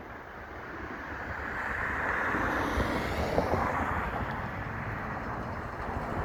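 A Hawker Beechcraft 400XP business jet's twin turbofan engines rushing by, growing louder over the first few seconds and peaking about three and a half seconds in, with a faint whine that falls in pitch as the jet passes. Wind buffets the microphone throughout.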